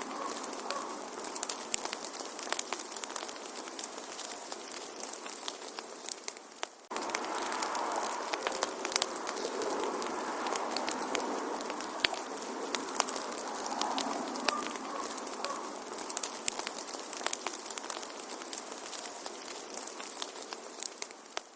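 Wood fire crackling in a fireplace: many sharp pops and snaps over a steady hiss. The sound dips briefly just before seven seconds in, then resumes abruptly.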